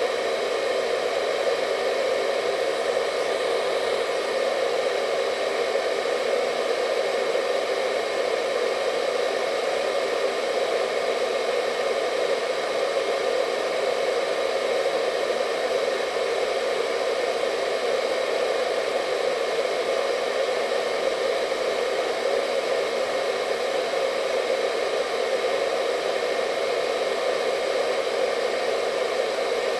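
Hair dryer running steadily, a constant rushing hum of air and motor with a faint high whine, unchanging throughout.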